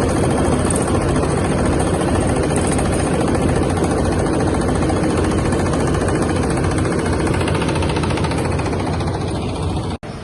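Coconut husk decorticating machine running steadily and loudly, a dense even mechanical din. Near the end it drops out for an instant and comes back quieter.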